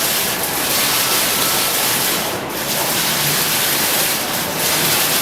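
Fountain water falling and splashing in a steady, dense hiss.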